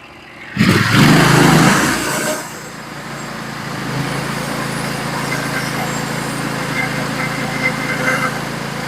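Norwood HD36v2 portable bandsaw mill's engine and band blade coming up to speed: a loud rush starts about half a second in and eases off after about two seconds, then the mill settles into steady running.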